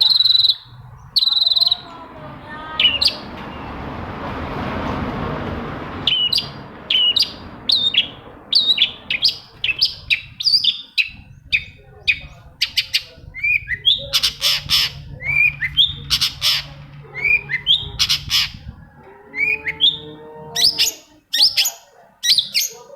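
Long-tailed shrike (cendet) calling: a dense, rapid run of short, sharp calls, some dropping in pitch. A rushing noise swells and fades in the first few seconds.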